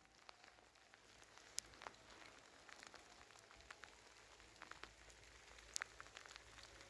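Rain falling, faint, with scattered sharp drops striking close by; two louder drops stand out, one near the start and one near the end.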